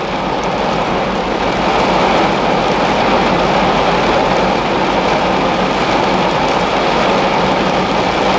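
Heavy rain drumming on the roof and windows of a parked car, heard from inside the cabin as a loud, steady hiss, with a low steady hum underneath.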